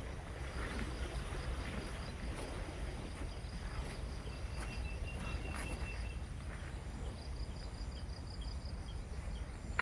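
Insects chirping in fast, even pulsed trills over a steady low rumble. A thin high tone is held for about two seconds near the middle.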